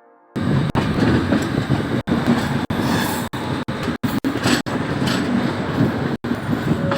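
Moving train running on the rails: a steady rumbling rattle that starts abruptly about a third of a second in and is broken by several very brief dropouts.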